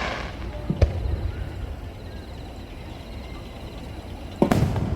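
Aerial firework shells bursting: a sharp bang about a second in and a louder, echoing bang near the end, over a steady low rumble.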